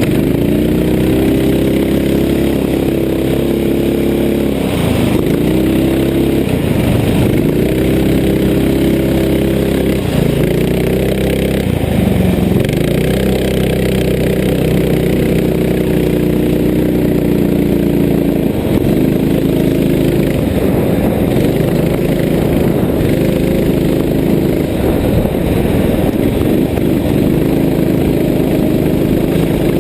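Vehicle engine running steadily. Its pitch dips and climbs back several times in the first dozen seconds, then holds steadier.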